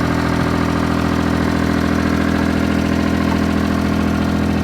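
Vehicle engine idling steadily at an even pitch.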